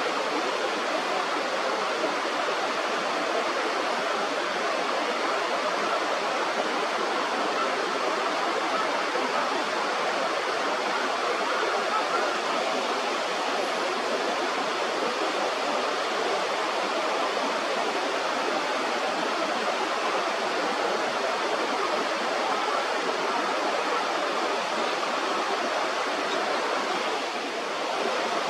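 Steady rushing of flowing river water, an even noise that dips slightly near the end.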